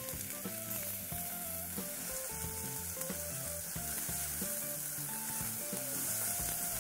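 Chopped onion and garlic sizzling steadily in olive oil in a stainless steel pot over low-to-medium heat, stirred with a silicone spatula. Soft background music plays throughout.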